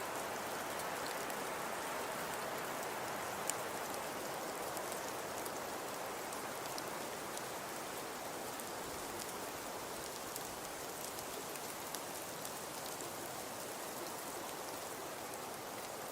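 Fireplace crackling: a steady hiss dotted with many small pops, with a sharper pop about three and a half seconds in and another near twelve seconds.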